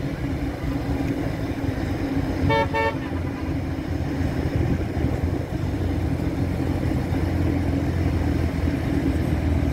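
Corvette V8 engines running as the cars roll past at parade speed, a steady low rumble. A car horn gives one short toot about two and a half seconds in.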